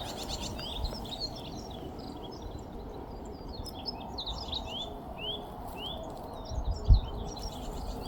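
Morning birdsong: several small birds chirping in quick short rising notes, over a low wind rumble, with one soft thump about seven seconds in.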